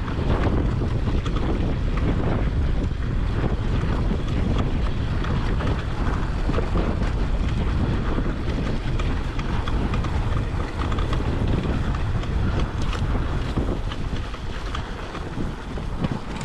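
Wind buffeting an action camera's microphone while riding a Honda CRF250R dirt bike, a steady low rumble with the motorcycle's running noise mixed in. It eases off a little near the end.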